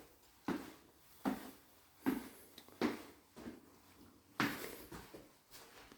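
Footsteps of a person walking at an even pace, about one step every three-quarters of a second, in a small indoor space.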